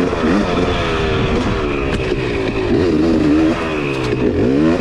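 Two-stroke dirt bike engine being ridden, its pitch rising and falling several times as the throttle opens and closes, with sharp drops about three and a half seconds in and again near the end.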